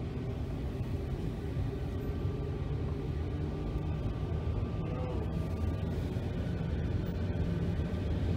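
Passenger train running along the track, heard from inside the coach as a steady low rumble of wheels and running gear.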